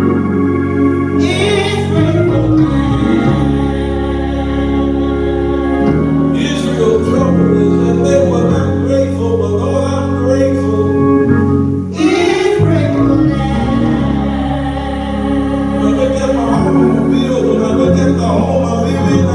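Gospel music: singing with a steady instrumental accompaniment and bass underneath.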